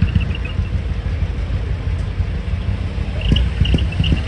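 Heavy truck's diesel engine rumbling steadily.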